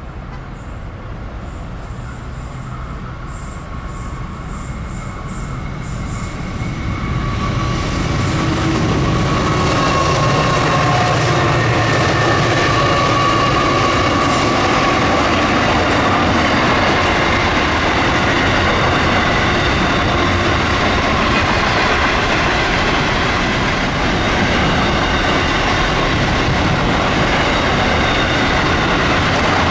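Pacific National container train passing, led by NR and G class diesel-electric locomotives. The sound builds over the first ten seconds as the locomotives come up and go by. Then the steady rumble and clatter of loaded container wagons rolling past, with faint high wheel squeal now and then.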